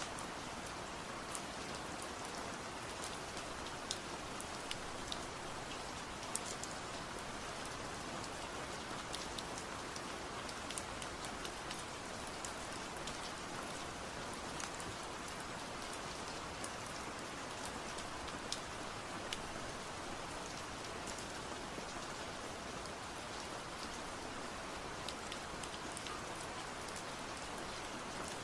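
Steady rain falling, an even hiss dotted with many sharp individual drop ticks.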